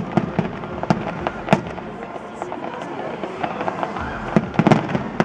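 Fireworks display: irregular sharp bangs and crackles of shells bursting, with a quick cluster of bangs about four and a half seconds in.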